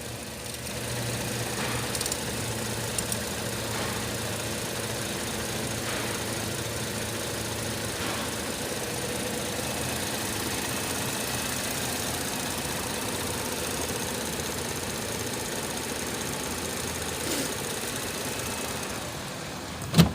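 Holden Commodore 3.6-litre Alloytec V6 engine idling steadily. A sharp knock comes right at the end.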